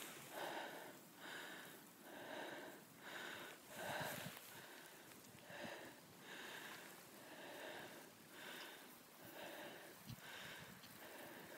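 Faint, steady rhythmic breathing close to the microphone, a breath a little more than once a second.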